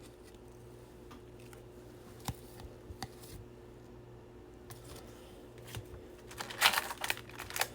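Baseball trading cards being handled: a few faint taps and slides, then a louder burst of rustling about six and a half seconds in.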